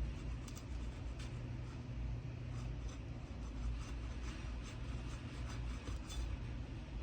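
Asphalt roof shingles being pried and peeled loose from their sticky tar sealant strip: a series of light scraping clicks over a steady low rumble.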